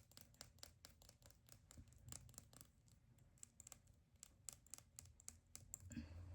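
Faint, quick, irregular fingernail taps and clicks on a plastic mascara tube.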